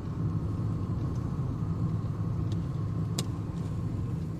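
Car driving along on a rain-wet road: a steady low rumble of engine and tyres, with a sharp click about three seconds in.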